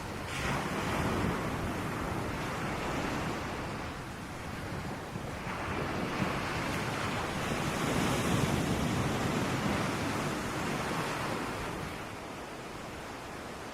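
Ocean surf: waves washing in and receding in a steady rushing wash that swells to its loudest about two-thirds of the way through, then eases off near the end.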